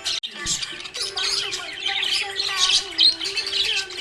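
A flock of budgerigars chirping and chattering continuously, many high, quick calls overlapping, with a brief break just after the start.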